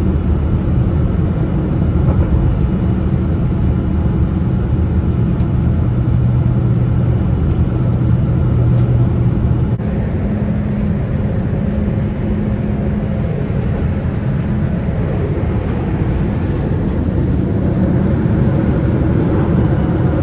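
Steady cabin noise inside a Boeing 787-9 airliner: a loud, even rumble of jet engines and airflow with a low drone, whose pitch shifts up about halfway through.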